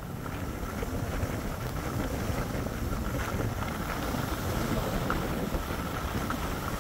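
Steady wind buffeting the microphone: an even rushing noise, heaviest in the low end.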